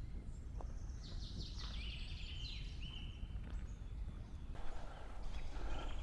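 Low, steady rumble of wind on the microphone, with a small bird singing a short phrase about a second in: a run of quick falling high notes that ends on one held note.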